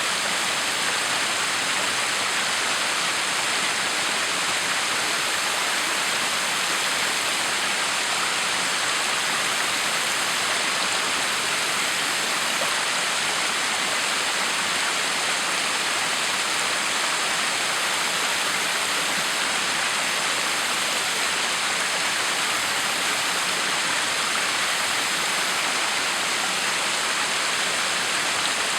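Backyard waterfall: water falling and splashing in a steady, unbroken rush.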